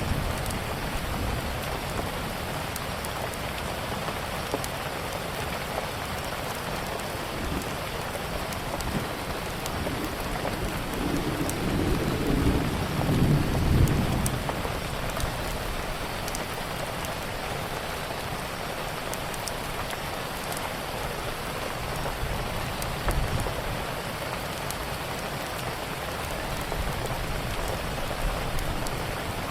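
Steady heavy rain, with a low roll of thunder swelling and fading between about eleven and fourteen seconds in. Sparse small crackles of a wood fire sit over the rain.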